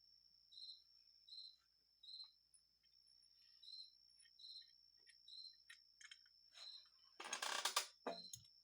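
Faint cricket chirping in a steady rhythm, a short chirp roughly every second, over a thin steady high whine. Near the end comes a brief, louder rustle and clatter with a few small clicks.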